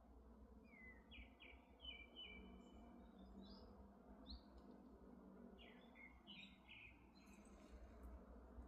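Birdsong: a small songbird singing two short phrases of quick chirping notes, about a second in and again about six seconds in, faint over a low rumble.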